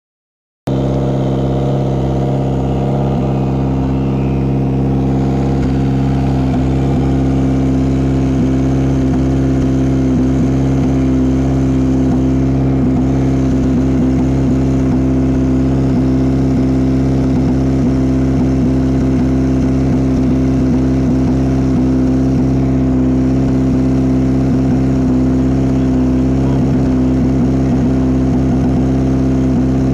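Toyota Yaris WRC rally car's turbocharged four-cylinder engine idling steadily, starting about half a second in.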